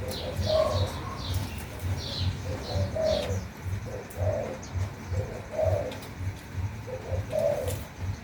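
A dove cooing over and over, with a small bird chirping in quick high notes during the first three seconds. A low, even pulsing runs beneath the calls.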